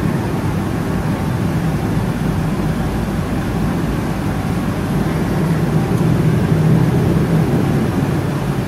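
Steady rumble of a Boeing 777-300ER airliner in operation, its engine and airflow noise growing a little louder about five seconds in and easing back near the end.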